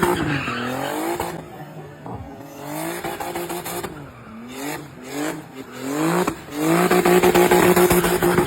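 Turbocharged BMW 325i straight-six revving hard while drifting. It is held at high, steady revs at first, then the revs rise and fall repeatedly as the throttle is blipped, then it is held high again for the last couple of seconds.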